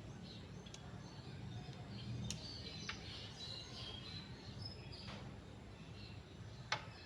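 Faint bird chirps over low background hum, with a few sharp clicks, the loudest one near the end.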